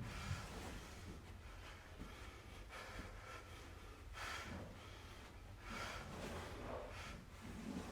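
A person breathing hard through a strenuous kettlebell bear-crawl set: a string of short, forceful breaths every second or so, the strongest about four and six seconds in, over a low steady hum.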